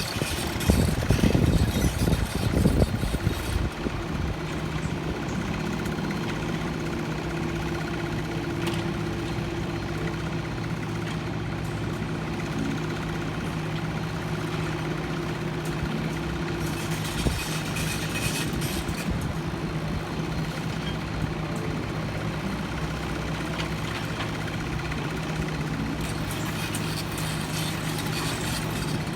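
An engine running steadily at idle, with a louder, rougher stretch in the first three seconds before it settles into an even hum.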